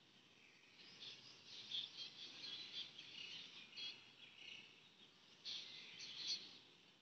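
Faint bird chirping in the background, in short bursts.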